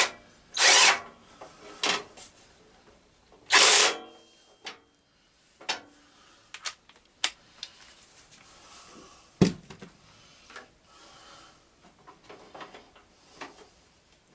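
Scattered clicks, knocks and rubbing from hand tools and parts being handled on a garden tractor. There are two short noisy scrapes in the first four seconds and a dull knock about nine seconds in.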